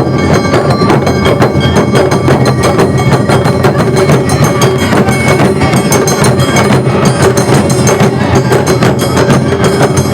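Awa odori festival band playing live: fast, continuous drum and metal-gong beats with held melodic tones over them.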